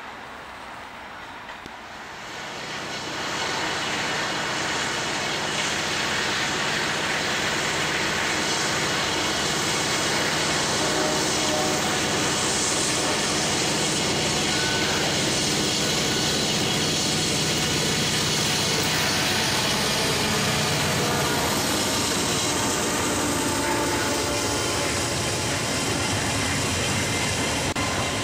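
Freight train coming past: a diesel locomotive's engine grows louder over the first few seconds and runs steadily as it passes. Then comes the steady rumble of tank cars and covered hoppers rolling by on the rails.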